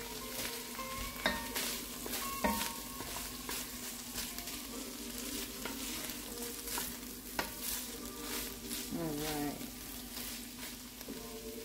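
Shredded chicken sizzling in butter in an enameled cast-iron Dutch oven, stirred with a wooden spatula that scrapes and taps against the pot over and over. A steady low hum runs underneath.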